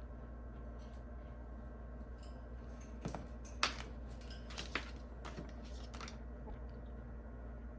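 A handful of light clicks and taps, scattered between about three and six seconds in, the sharpest one at about three and a half seconds, over a steady low hum.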